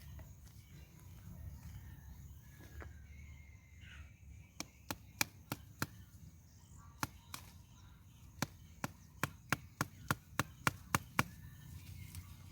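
A hand tool chopping, about seventeen sharp strikes at roughly three a second, in short runs with brief pauses, starting about four and a half seconds in.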